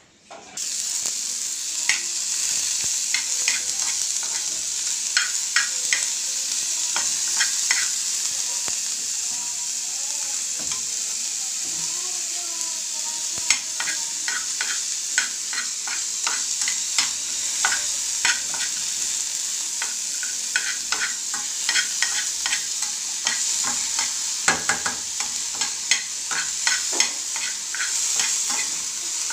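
Chopped onions and green chillies sizzling in a frying pan, starting about half a second in, while a metal spoon stirs them with repeated clicks and scrapes against the pan.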